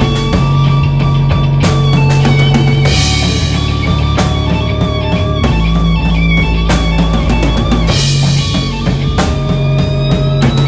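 Instrumental rock jam: a drum kit, bass and guitars playing together, with held bass notes under the guitars and two cymbal crashes about three and eight seconds in.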